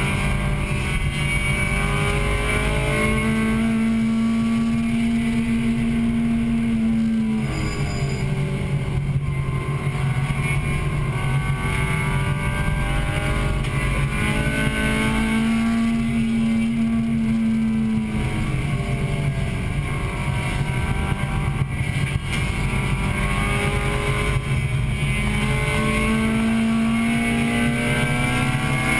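Acura Integra Type-R's 1.8-litre VTEC four-cylinder race engine heard from inside the cabin, winding up through the gears and held high on the straights. The revs drop away about seven seconds in and again near eighteen seconds as the car brakes for corners, then climb again.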